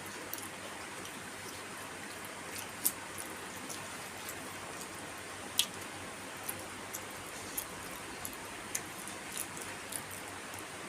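Eating close to the microphone: scattered small clicks and smacks over a steady hiss, with two louder sharp clicks about three and five and a half seconds in.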